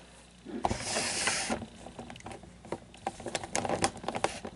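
Handling noise from a blade being worked against glued plastic: a rustling scrape about a second in, then a run of small clicks and taps.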